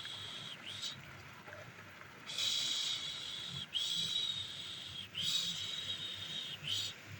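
A woman's soothing 'pış pış' shushing, the hushing sound used to calm a baby to sleep: a long hiss repeated about every one and a half seconds with short breaks between strokes.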